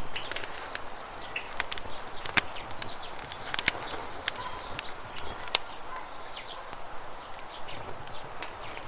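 Campfire crackling with sharp, irregular pops, over the steady rush of river water and a few short bird chirps.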